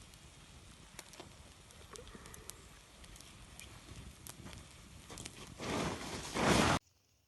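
Cooking fire crackling, with scattered sharp pops. Near the end come two loud rushing bursts of noise, then the sound cuts off abruptly.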